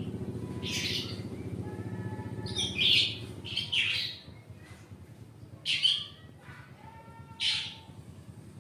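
Kept songbird giving short, harsh chirps, about five spaced across several seconds, over a low buzzing hum that fades out about halfway through.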